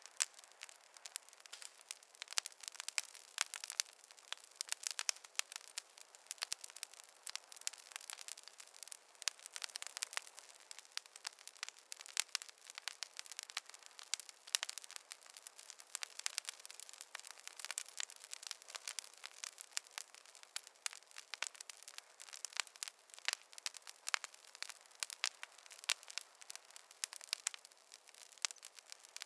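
Wood fire crackling in a fireplace, with rapid, irregular pops and snaps.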